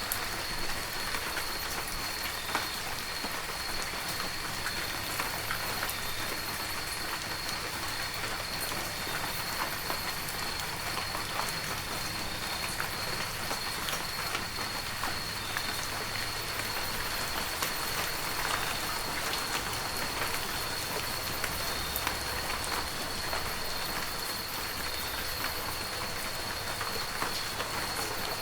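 Heavy rain falling steadily: a dense, even hiss full of individual drops striking surfaces. A thin, steady high tone runs underneath.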